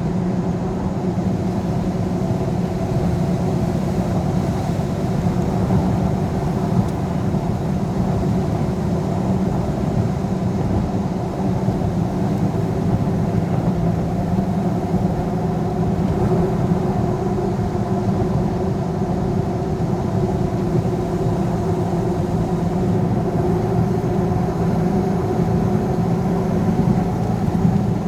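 Vehicle engine and road noise while driving: a steady drone with an even, unchanging pitch.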